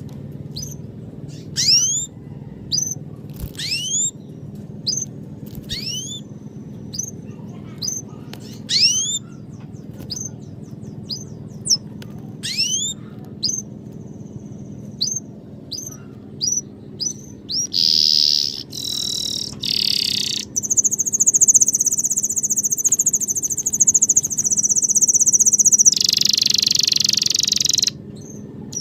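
Songbird chirping: short, quick, upward-sweeping chirps repeated about once a second. About two-thirds of the way in, a loud high-pitched buzz takes over and cuts off suddenly near the end.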